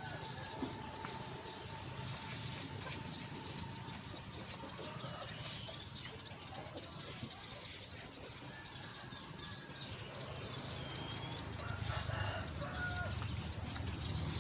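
Birds chirping: a fast run of short, high chirps, about four a second, with occasional whistled call notes over a low rumble.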